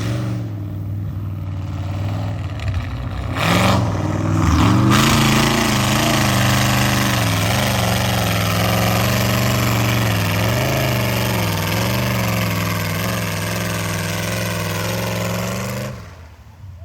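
Truck engine running at high revs as a stock truck on 44-inch tires drives through a mud slough, its pitch rising and falling with the throttle. It gets louder about four seconds in and drops off suddenly near the end.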